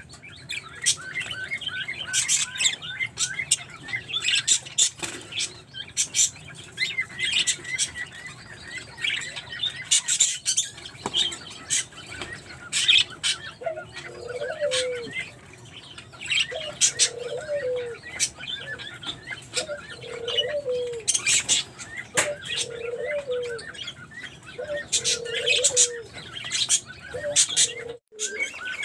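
Budgies chirping and twittering continuously in quick, high chirps. From about halfway a lower call repeats every couple of seconds beneath them.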